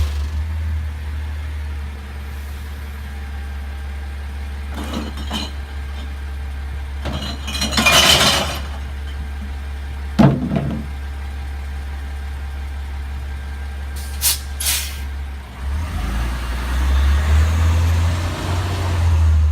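CNG glass-collection garbage truck engine running with a steady low drone. About eight seconds in comes a hiss, then a sharp knock; there are two quick clicks near fourteen seconds, and the engine grows louder near the end.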